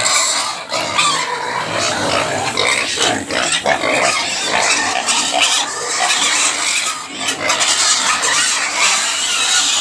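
Pig squealing loudly and without a break, a harsh, shrill noise that is ear-hurting.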